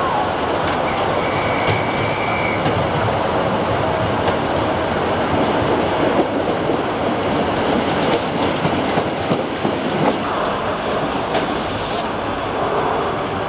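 Train running over pointwork, its wheels clattering over the rail joints and crossings, with a brief high wheel squeal a second or two in.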